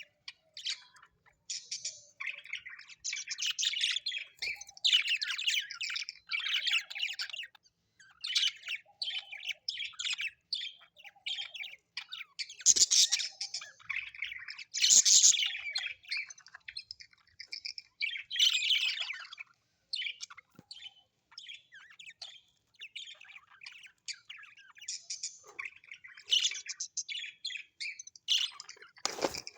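Parrots chattering and chirping without pause, a dense run of quick high notes broken by a few louder squawks. A sharp knock near the end.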